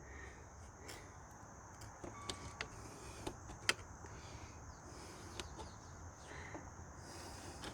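A few faint, light clicks and taps, as from small parts being handled, over a steady high hum of insects.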